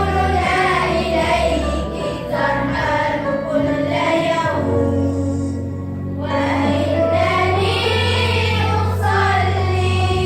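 A school children's choir singing an Arabic nasheed over a steady instrumental backing with held bass notes. The voices sing two phrases, with a short pause between them a little before the middle while the backing carries on.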